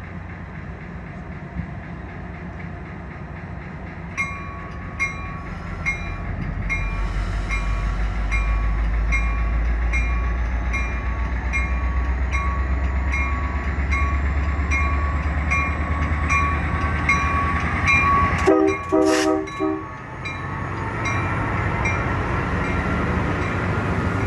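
Grade-crossing bells ringing steadily as an NCTD Coaster commuter train approaches, its diesel locomotive's low rumble building. The train's horn sounds in a few short blasts near the end.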